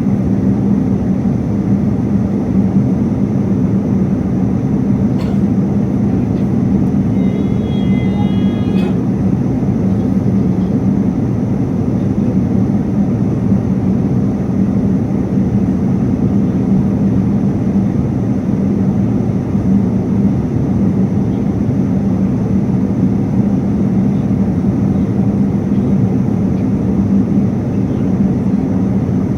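Steady, even roar of a jet airliner's cabin noise in flight, with a deep hum at its core. About seven seconds in, a brief faint tonal sound and a couple of light clicks rise above it.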